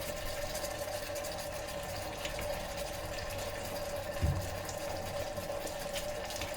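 Capsicum and onions frying in oil in an electric kettle: a steady sizzle over a constant electrical hum, with one soft knock about four seconds in.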